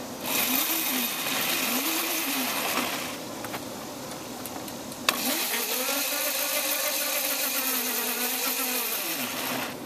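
Mini dirt bike engine revving for a burnout: two short blips, a quieter lull about three seconds in, then a long rev held for about four seconds before dropping away near the end.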